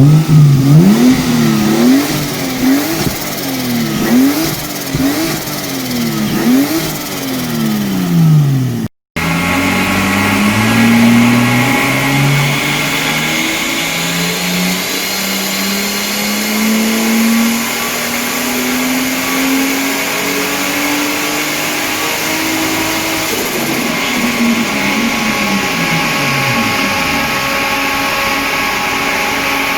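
Turbocharged Lexus IS200's straight-six engine revved in a series of quick blips, about six. Then, after a short break, it makes one long pull, rising steadily in pitch for about twelve seconds before the revs drop back.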